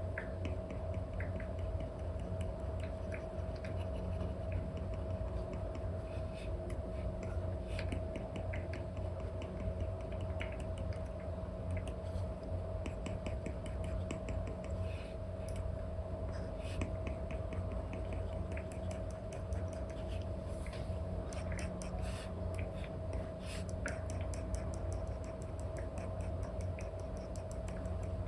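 Apple Pencil nib tapping and stroking across a paper-like film on an iPad screen: many short scratchy strokes and taps, some in quick runs, over a steady low hum.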